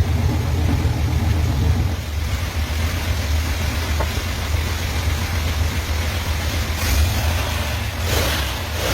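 Car engine idling through a 3-inch exhaust with an electric exhaust cutout, a steady low rumble, with the cutout closed. Two short rushing noises come near the end.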